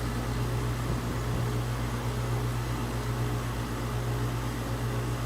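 Outdoor air-conditioning unit running with a steady low hum of its compressor and fan.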